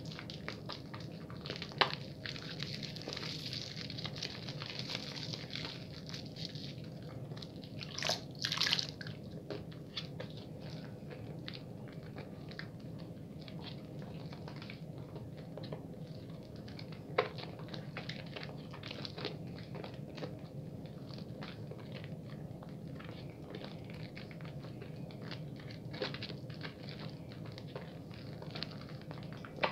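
Bar soap being lathered: a continuous wet squishing and crackling of soap foam, dense with small clicks. A few sharper clicks stand out, the loudest pair about eight seconds in.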